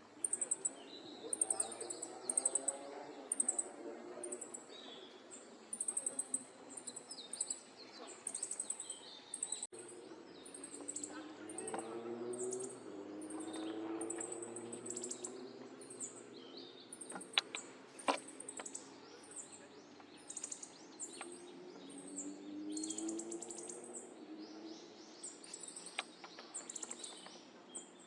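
Small songbirds calling: a thin high note repeated about once a second, with fainter chirps in between.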